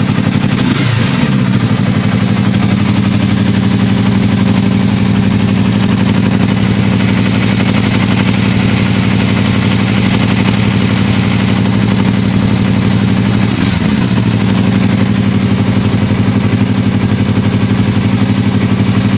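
Yamaha YZF-R25/R3 parallel-twin motorcycle engine idling steadily through an aftermarket slip-on exhaust, with two short throttle blips, one about a second in and one near the three-quarter mark.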